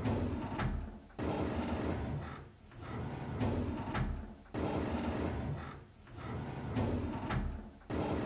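A drawer being pulled open over and over, about every three and a half seconds. Each time there is a sudden start, then a rumbling slide that fades away.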